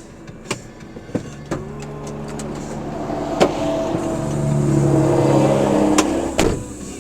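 Road vehicle engine and traffic noise that swells over a few seconds and then cuts off abruptly, with several sharp clicks spread through it.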